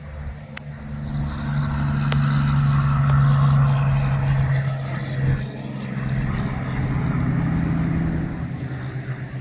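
A car engine running with road noise, a steady low hum that grows louder over the first few seconds, dips briefly past the middle, then picks up again.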